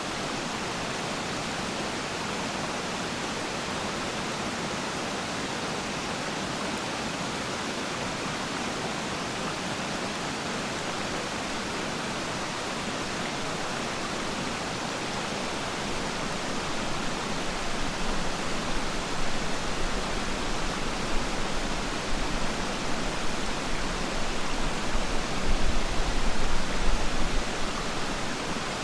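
Waterfall pouring with a steady, even rush of water. About halfway through, a low, uneven rumble joins in and the sound gets louder and less steady.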